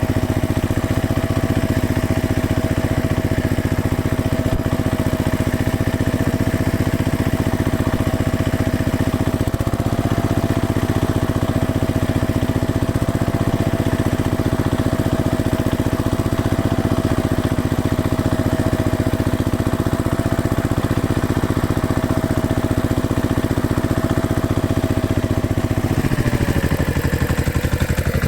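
Tractor engine running at a steady speed. Near the end its pitch drops as the revs fall.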